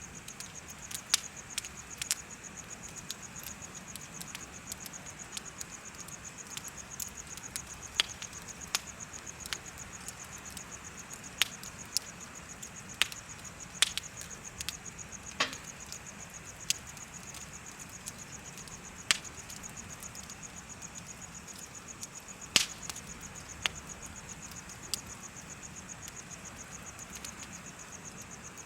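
Wood bonfire crackling, with irregular sharp pops, the loudest a little after the middle, over a steady high-pitched, fast-pulsing chirping of insects.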